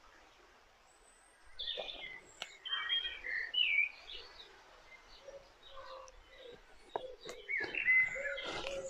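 Songbirds chirping and calling in short phrases, starting about a second and a half in and picking up again near the end, with a few sharp clicks in between.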